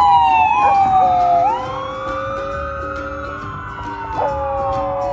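Dogs howling: several long howls overlap, one sliding slowly down in pitch while another rises and holds, over a lower steady howl.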